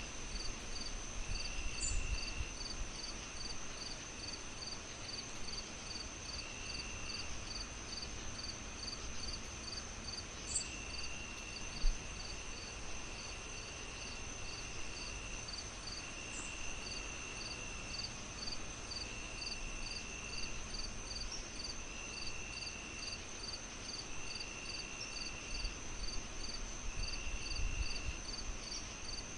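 Night insects chirping in layers: a steady high trill, short chirps about twice a second, and lower trills of about a second every few seconds. A faint low rumble runs underneath, with one sharp pop about twelve seconds in.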